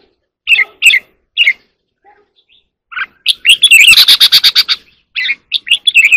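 Red-whiskered bulbul singing: a few short chirps, then a fast rattling run of about a dozen notes in the middle, the loudest part, then more chirps near the end. The rattling run is the bulbul's 'ché' call, the burst prized in song birds.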